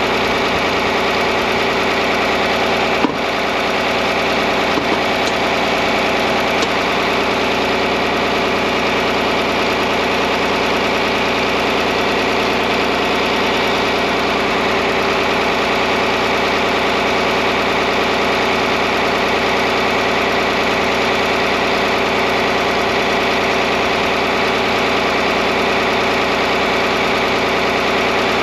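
John Deere 4010 tractor engine idling steadily at an even pitch. There is a sharp click about three seconds in and a couple of lighter ticks a little later.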